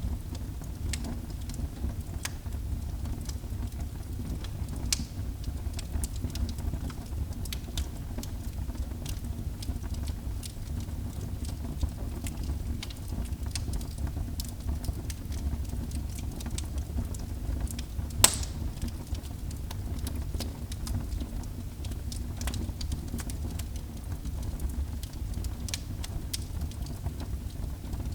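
Wood fire burning in a fireplace: a steady low rumble with frequent sharp crackles and pops, one much louder pop about 18 seconds in.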